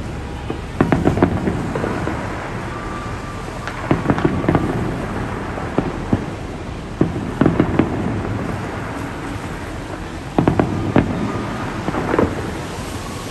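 Aerial fireworks show: clusters of sharp bangs roughly every three seconds, five groups in all, with a rolling rumble of booms between them.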